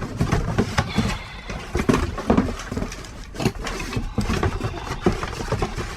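Trash being handled and shifted in a dumpster: irregular knocks, clatter and rustling, some knocks louder than others, over a low steady rumble.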